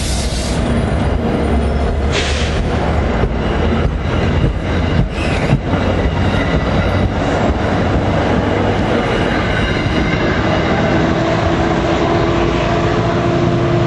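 Commuter train passing close by, its wheels clicking sharply over rail joints several times in the first half, under a steady low locomotive hum that carries on after the clicks.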